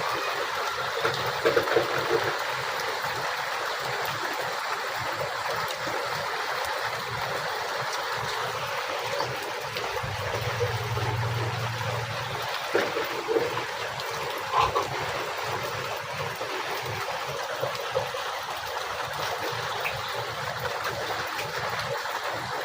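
Heavy rain falling steadily, with a few louder splashes. A brief low hum comes in about halfway through.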